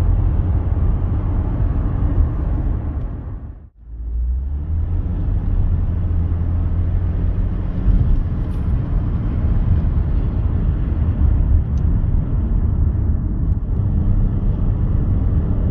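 Steady diesel engine drone and road rumble inside the cabin of a 2012 Audi A4 2.0 TDI four-cylinder diesel, driven under load in fourth gear. The sound cuts out briefly about four seconds in. The clutch is slipping: the revs sit high for the road speed.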